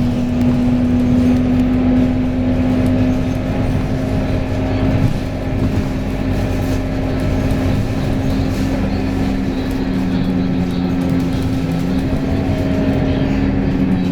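A vehicle running with a steady droning hum. A second, lower tone shifts in pitch in the later part.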